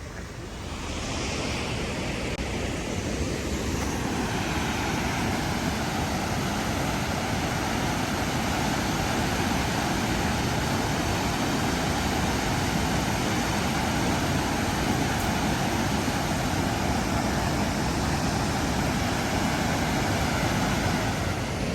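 Waterfall rushing: a steady, even roar of falling water that swells up over the first couple of seconds.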